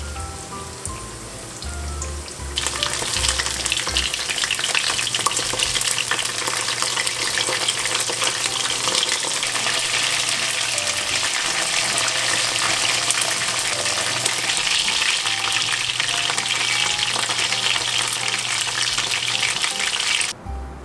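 Starch-coated pork pieces frying in hot oil in a cast-iron skillet: a dense, crackling sizzle that starts abruptly about two and a half seconds in and cuts off just before the end. Soft background music plays underneath.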